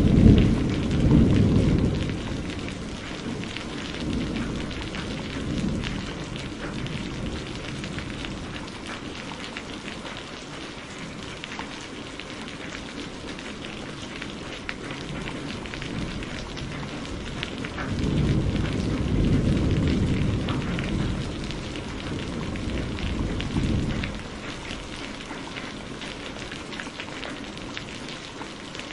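Steady rain with two rolls of thunder: one at the start that fades over the first few seconds, and another that swells up about eighteen seconds in and rumbles for about six seconds.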